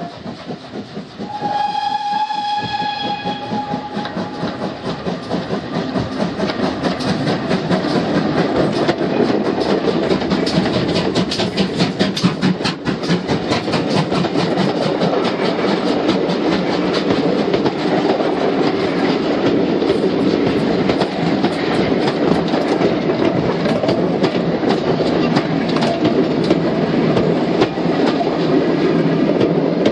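Heritage passenger train running, heard from an open carriage window: the locomotive sounds one long note for about two seconds near the start. Then the running noise swells and stays loud as another train passes close alongside, with a fast clickety-clack of wheels over the rail joints.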